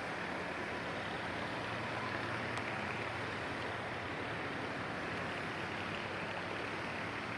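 Steady drone of a tugboat's engines across the water, mixed with wind and water noise, with one faint tick a little over two and a half seconds in.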